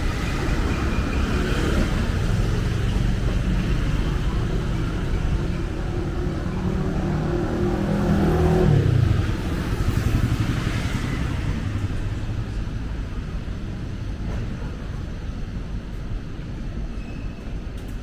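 Road traffic passing close by: cars and motorcycles running along the street. One vehicle goes past loudest about halfway through, its engine note dropping as it passes, then the traffic noise eases off a little.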